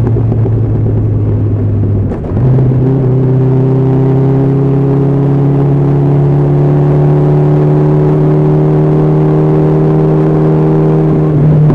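Honda CB1300SF's inline-four engine running under way on a motorcycle. About two seconds in the engine note drops briefly as the throttle eases, then it pulls again with a slowly rising pitch, changing again and getting louder near the end.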